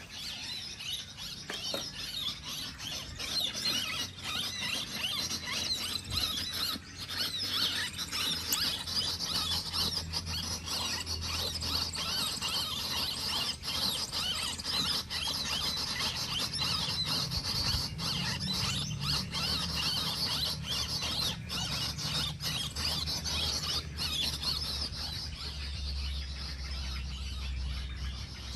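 Continuous dense, high-pitched chittering and squealing calls of small birds. A low rumble comes in near the end.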